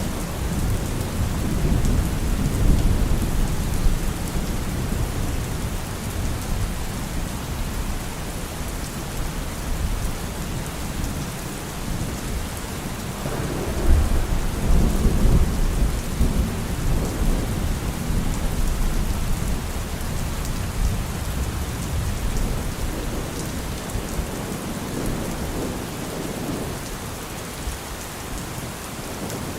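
Steady heavy rain falling, with thunder rumbling low underneath. The rumble swells about halfway through and again right at the end.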